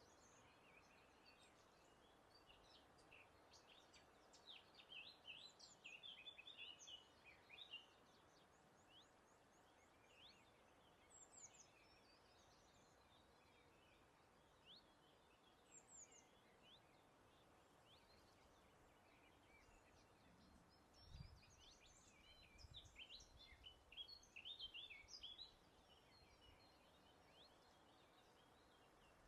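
Faint birdsong: two spells of quick, high twittering about four seconds in and again about two-thirds through, with scattered single chirps between, over a steady soft outdoor hiss.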